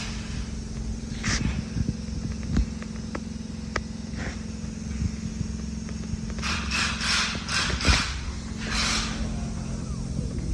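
GMC Yukon XL's 6.2-litre V8 running at a steady idle, with scattered clicks and several short hissing bursts over it.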